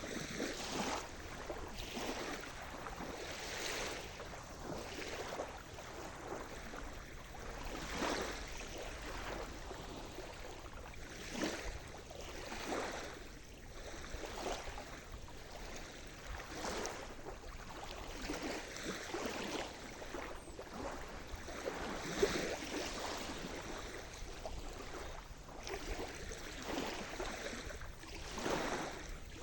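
Sea surf: small waves washing and splashing onto the shore in an irregular, continuous wash, with soft swells every second or two.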